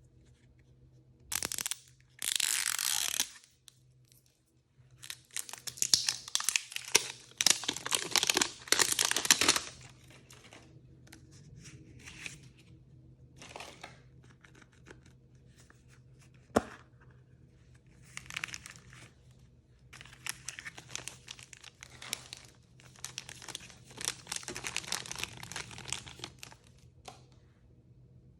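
Blind-bag packaging being torn open and crinkled by hand, in irregular bursts. There is a short rip about two seconds in, then a loud stretch of tearing and rustling from about five to ten seconds, and softer crinkling through the later part.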